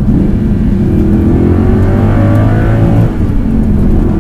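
The naturally aspirated 4.2-litre V8 of a first-generation Audi R8 pulling hard and rising in pitch, heard from inside the cabin. About three seconds in the note briefly drops for an upshift of the single-clutch R-Tronic gearbox, then climbs again.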